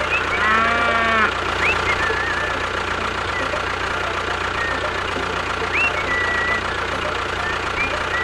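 An engine idling steadily, with birds chirping over it and a short pitched call about half a second in.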